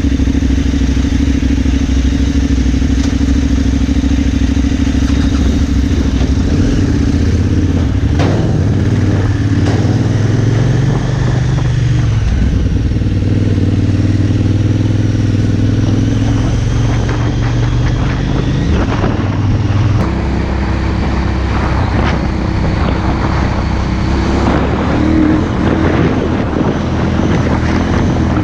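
KTM 990 Adventure's LC8 V-twin engine running under way, its note shifting as the revs change about twelve and twenty seconds in. In the second half, many short clattering knocks sound over the engine.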